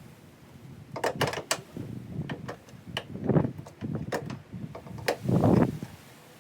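Hand work on a car's fabric hood liner and its fastenings: sharp clicks and knocks, with a few short scraping, rustling bursts; the loudest comes near the end.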